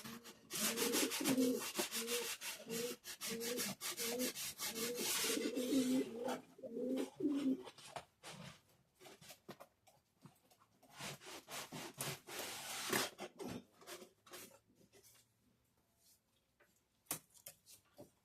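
Model railway rails being scrubbed by hand with a track cleaner, in quick back-and-forth strokes about two a second with a squeak on each stroke. The scrubbing gives way to scattered scrapes and taps about halfway through, then stops.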